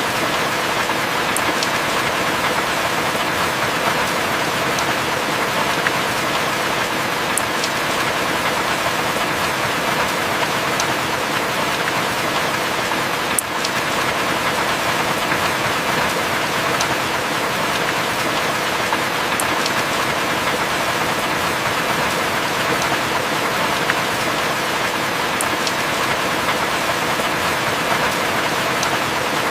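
Heavy rain falling steadily, a dense even hiss dotted with scattered sharp drop ticks, as rain on and around a wooden cabin.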